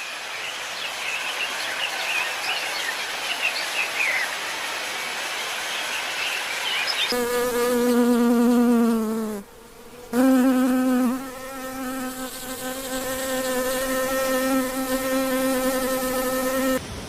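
A flying insect buzzing close by: a steady, slightly wavering hum that starts suddenly about seven seconds in, drops out for a moment, then carries on. Before it there is an even hiss with faint chirps.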